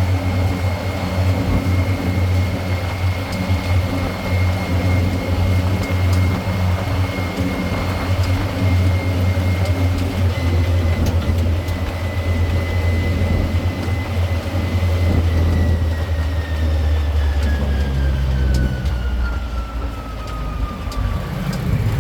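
Tourist road train running on the street, a steady low engine hum with a thin high whine that falls in pitch over the last several seconds.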